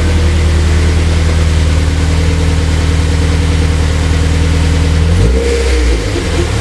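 Honda S2000's four-cylinder engine running steadily, then about five seconds in its pitch briefly swings and it settles back to a lower, steady idle. The engine has just been started on a new Skunk2 intake manifold and is running lean.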